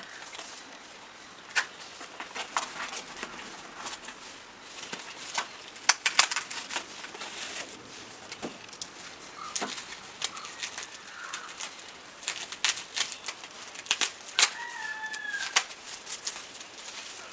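Scattered sharp clicks and taps, with a bird calling once near the end: a short pitched call that drops at its close.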